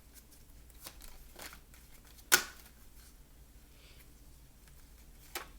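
Tarot cards being handled, with light rustling and two sharp snaps of a card being flipped or laid down, the louder one a little over two seconds in and a smaller one near the end.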